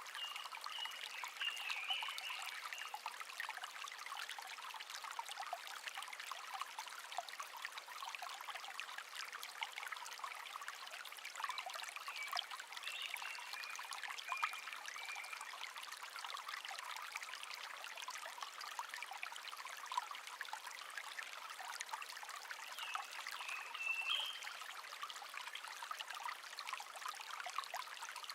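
Shallow brook babbling and trickling steadily over stones, with a songbird singing short phrases several times: near the start, around the middle and near the end.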